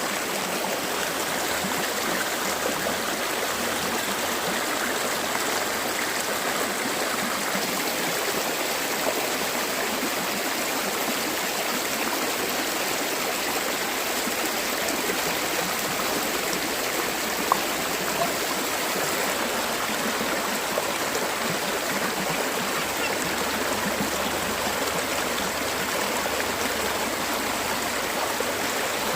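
Fast-flowing stream water rushing steadily, with a couple of brief knocks just past the middle.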